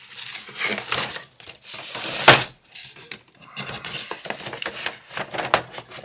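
Packaging being handled and opened by hand: irregular rustling and rattling, with one sharp knock or snap a little over two seconds in, the loudest sound.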